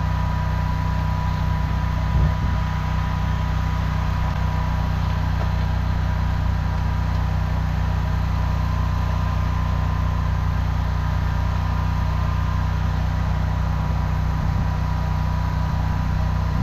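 Engine running steadily at an even speed, a low drone with a thin steady whine above it and a brief knock about two seconds in.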